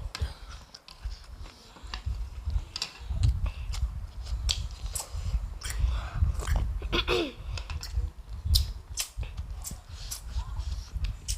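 A person eating noodle soup close to the microphone, chewing and deliberately smacking the lips in many sharp, wet, irregular clicks.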